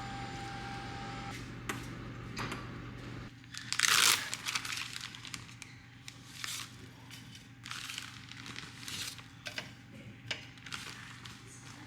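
Packaging being crinkled and torn, in a run of short rustles with the loudest burst about four seconds in. A steady low hum stops a little after three seconds.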